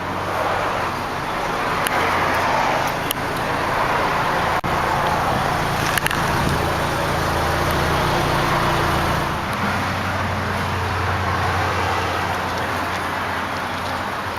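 2009 Scion xB's 2.4-litre 16-valve four-cylinder engine idling steadily. A hiss of road traffic behind it swells and fades.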